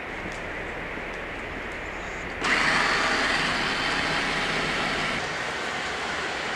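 Roomba robot vacuum running with a steady whirring hum. About two and a half seconds in it suddenly gets louder and higher, then eases down a little about five seconds in.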